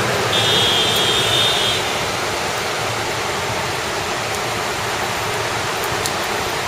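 Heavy rain pouring down in a steady, even hiss. About a third of a second in, a high steady tone joins it for about a second and a half.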